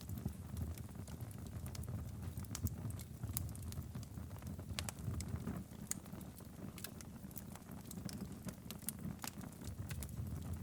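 Fire in a fireplace crackling and popping at irregular intervals over a low, steady rumble.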